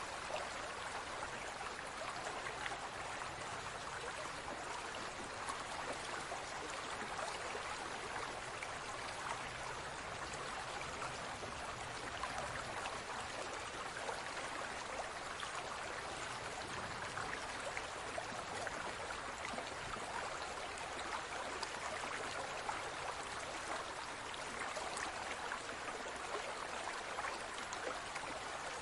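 Aquarium water trickling and bubbling steadily, with a constant patter of tiny pops and splashes.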